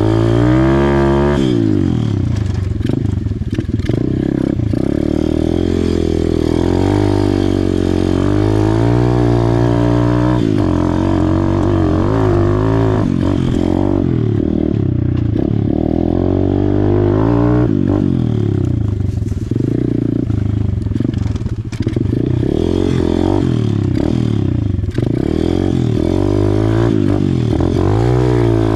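Amazon pit bike's small four-stroke single-cylinder engine being ridden hard around a dirt track, revving up and dropping off again and again as the throttle is opened on the straights and rolled off into the turns.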